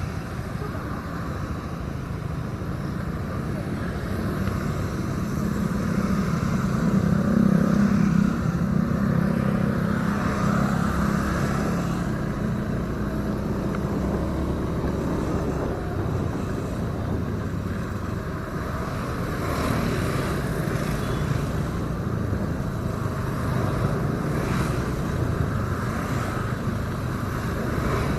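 Motorcycle engine running steadily on the move. It grows louder about six seconds in, then eases back to an even run.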